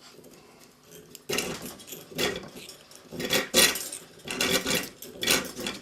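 Rat-tail file draw-filing the punched hole in an Ansonia barrel clock mainspring held in a vise: about five metal-on-metal rasping strokes, roughly one a second, starting after a quiet first second. The filing smooths tears and snags along the hole.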